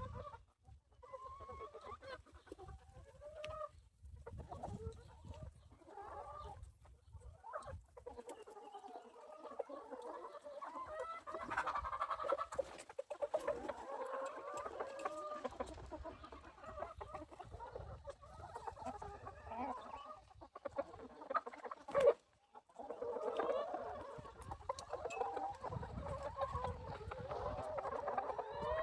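A flock of free-range hens clucking and calling, many short overlapping calls, with a brief gap and a single sharp knock about two-thirds of the way through.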